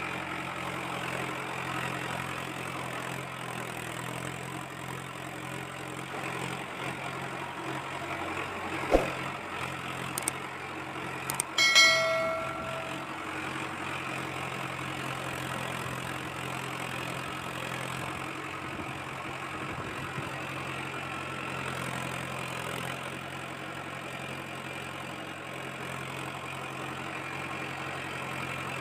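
Steady, even engine drone of a toy tractor's idling sound. A sharp knock comes about nine seconds in, and a few seconds later a short bell-like ring, the loudest sound.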